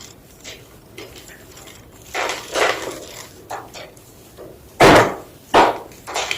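Large slabs of gym chalk crunching and crumbling in a series of short, dry crunches, the two loudest about five seconds in.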